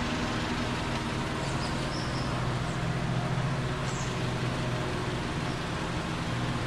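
A vehicle engine idling steadily, a continuous low hum over even background noise.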